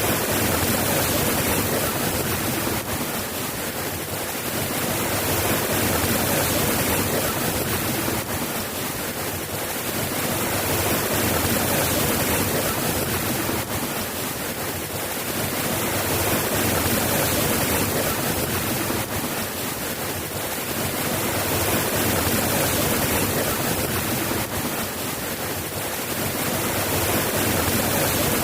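Steady rain: a dense, even hiss that swells and eases slowly every few seconds, with no thunder.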